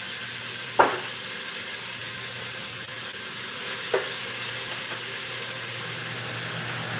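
Diced onion and bell pepper sizzling steadily in a pot as they sweat, with two sharp clinks, about a second in and again at four seconds.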